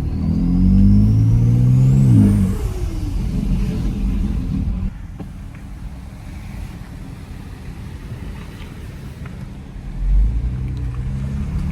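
BMW X3 M's twin-turbo straight-six accelerating hard, its pitch climbing for about two seconds with a thin whine rising over it, then settling into a steady cruise with road noise. The engine picks up again briefly about ten seconds in.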